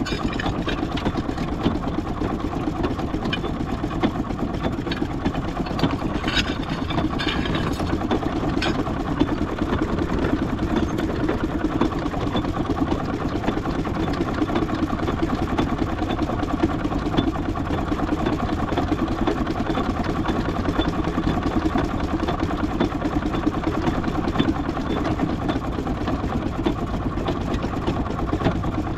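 An engine running steadily with a continuous low rumble, with a few brief clatters about six to nine seconds in.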